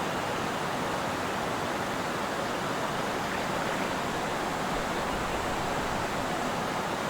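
Steady rush of river water flowing over rocks, an even noise that does not change.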